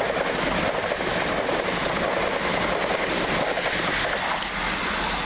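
Three coupled Class 377 Electrostar electric multiple units moving through the station: a steady, even noise of wheels on the rails and traction equipment.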